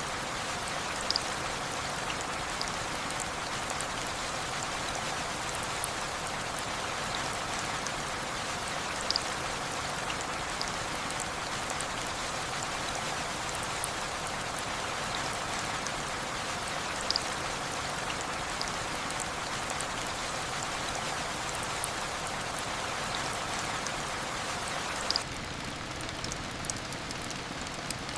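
Steady rain falling on a roof, an even hiss with a louder single drip every few seconds. About three seconds before the end the hiss thins slightly and sharp ticks come more often.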